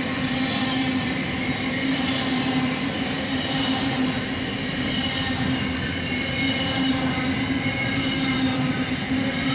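Container wagons of a freight train rolling past at speed: a loud, steady rumble and rattle of steel wheels on rail, with steady ringing tones held above it.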